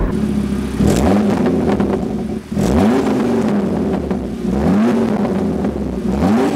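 KTM X-Bow GT-XR's turbocharged five-cylinder engine under acceleration, its pitch rising and falling several times, with a short dip about two and a half seconds in.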